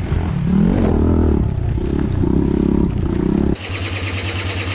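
Pit bike engine running and revving, its pitch rising and falling. It cuts off suddenly about three and a half seconds in, giving way to a quieter, fast, even mechanical ticking.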